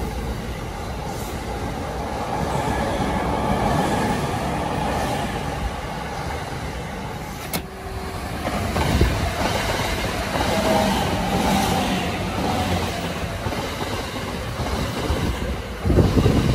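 JR E217-series electric commuter trains running on the rails. First one moves along the platform; after a break about halfway, another approaches and passes close near the end, where it is loudest.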